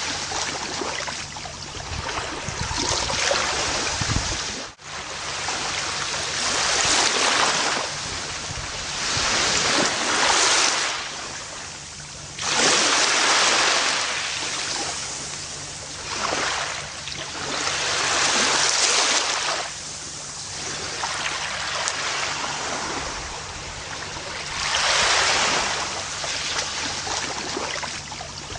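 Gentle ocean waves washing onto a beach, each surge of surf swelling and ebbing every few seconds. A brief dropout in the sound comes about five seconds in.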